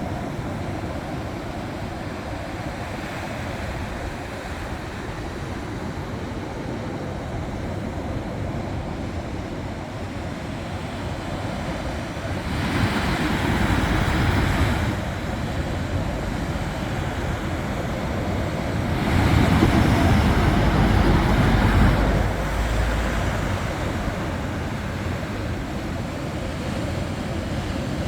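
Sea surf washing onto a beach: a steady rush of waves, swelling louder as a breaker comes in about twelve seconds in and again, longer and heavier, about twenty seconds in.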